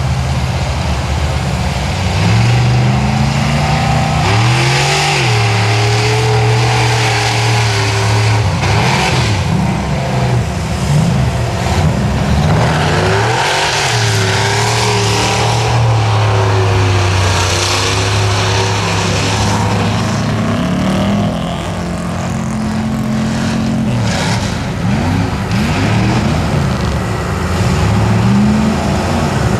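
Big mud-bogging truck engine running hard, its pitch repeatedly climbing and dropping as the throttle is worked, over a constant rushing noise.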